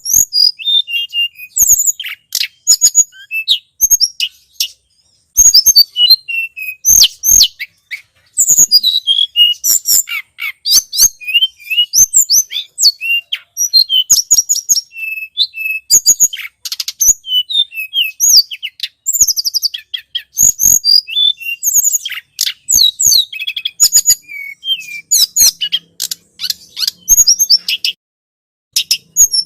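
Recorded song of a tledekan gunung, played as a bird lure: rapid, high-pitched chirping and twittering phrases in quick bursts, broken by brief pauses.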